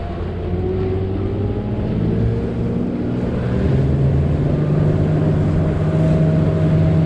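Boat's outboard motor running under way, its pitch and loudness rising about halfway through as the throttle is opened.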